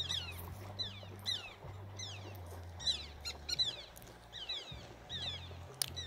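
Birds calling over and over: short, high notes that slide downward, about two a second and sometimes overlapping, as if from more than one bird. A steady low rumble runs underneath.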